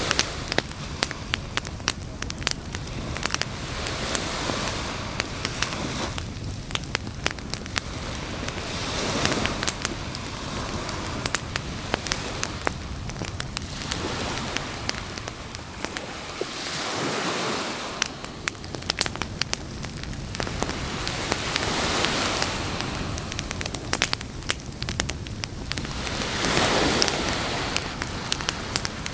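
Campfire crackling and popping with many sharp little snaps, over a hiss that swells and falls back every four to five seconds like waves washing up a beach.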